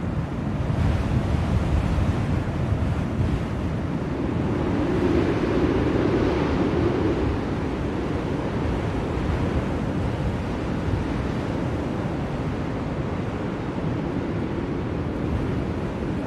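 Blizzard wind blowing steadily, with a gust that swells about four seconds in and dies back by about eight seconds.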